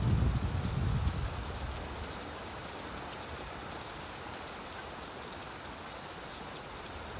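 Steady rainfall, an even hiss with faint patter of drops. A low rumble of thunder is dying away in the first second or two.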